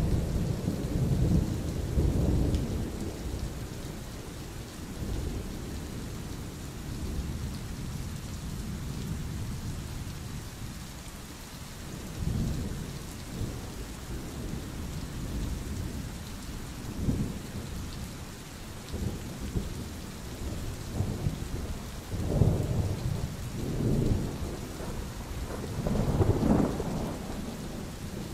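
Steady heavy rain during a thunderstorm. Low rolling rumbles of thunder swell and fade several times: at the start, around the middle, and a cluster near the end.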